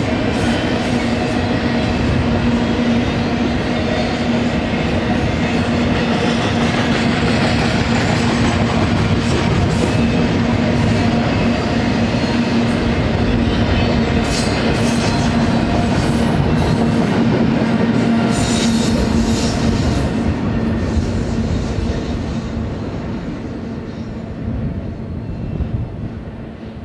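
Double-stack intermodal freight cars rolling past on steel wheels: a steady rumble of wheels on rail with a constant hum, and two brief spells of higher-pitched wheel noise in the middle. The sound fades over the last few seconds as the end of the train moves away.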